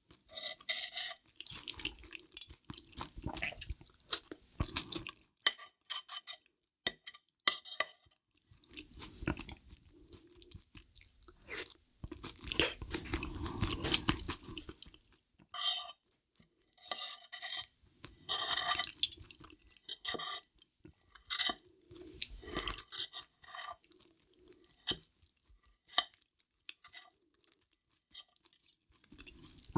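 Close-miked wet chewing of creamy rose cream-cheese pasta, with metal fork and spoon clicking and scraping against a ceramic plate in between.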